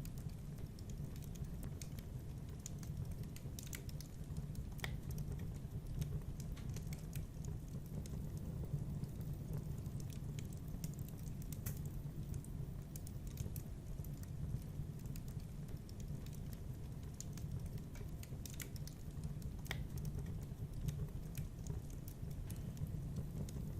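Wood fire crackling in a fireplace: scattered sharp pops and snaps at irregular moments over a steady low rumble.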